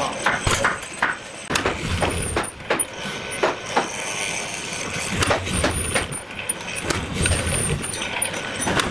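Irregular sharp knocks and taps, several a second at times, over a steady low rumble.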